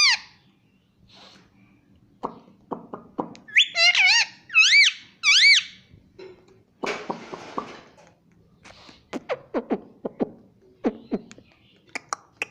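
Indian ringneck parrot making a string of sounds: a few quick clicks, then three or four loud arching squawks about four seconds in, a short hissing burst around seven seconds, and a run of short low falling chirps near the end.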